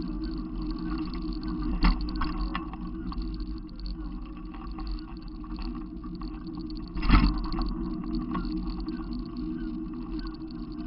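Steady rumble of a vehicle on the move, with two brief knocks, the louder one about seven seconds in.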